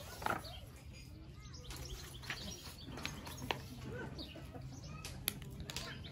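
Small birds chirping in short repeated calls, with a few sharp clicks or taps and a low steady background hum.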